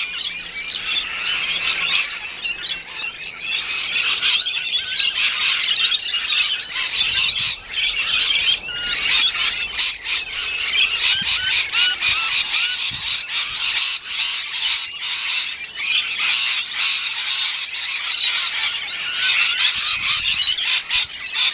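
A large flock of rainbow and musk lorikeets screeching and chattering non-stop, a raucous mass of overlapping shrill calls.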